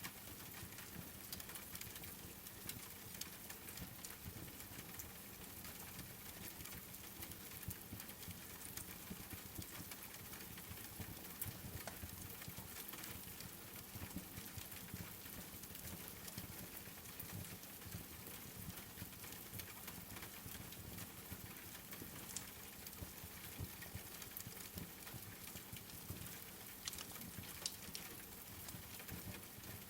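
Steady rain falling, with a wood fire crackling in scattered small pops and clicks throughout.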